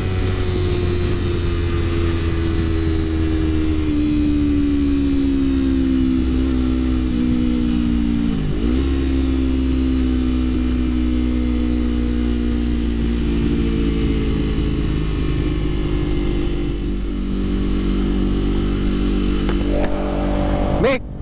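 Honda CBR250RR parallel-twin engine through an Akrapovic exhaust, heard from the rider's seat while under way, its revs slowly sinking, with a quick dip and recovery about eight and a half seconds in and a slight rise near the end. A steady low wind rumble runs underneath.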